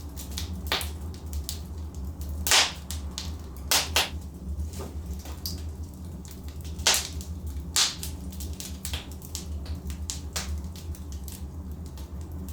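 Burning logs in a fireplace crackling, with irregular sharp pops and a few louder snaps, over a steady low rumble.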